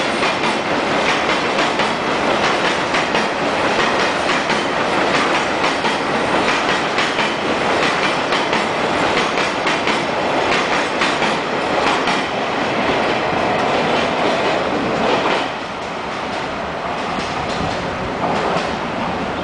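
Coal train wagons rolling past, their wheels clattering over the rail joints in a dense run of clicks. It becomes somewhat quieter about fifteen seconds in.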